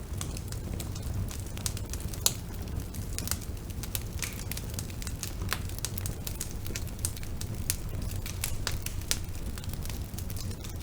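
Bonfire burning: a steady low rumble with frequent sharp crackles and pops of burning wood, one louder pop a little over two seconds in.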